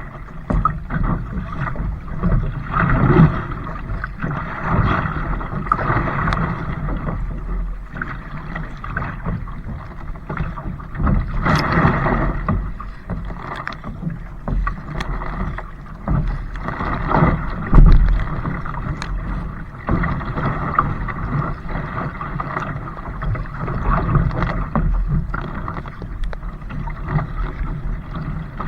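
A kayak being paddled: water splashing and sloshing in irregular swells every few seconds, with occasional sharp knocks.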